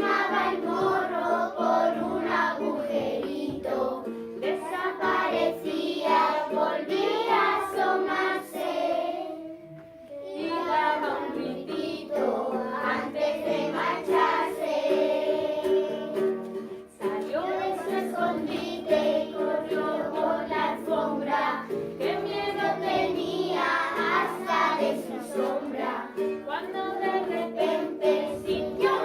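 A class of young children singing a children's song together in Spanish over instrumental accompaniment, with short breaks between phrases about a third and halfway through.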